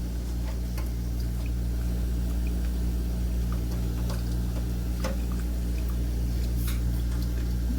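Water running steadily out of an electric water heater's tank as it drains, with a few light clicks of parts being handled.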